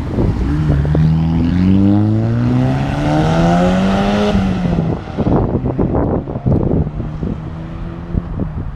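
A car engine accelerating hard, its pitch climbing steadily for about four seconds before it lets off, followed by a lower, steady exhaust rumble.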